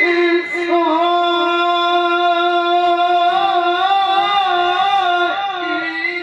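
Male Quran reciter holding one long melodic note in ornamented tilawah style. The note wavers with a slow vibrato and dips slightly near the end.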